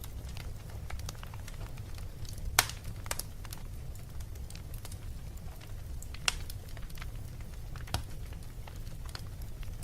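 Wood fire crackling over a steady low rumble, with sharp pops, the loudest about two and a half, six and eight seconds in.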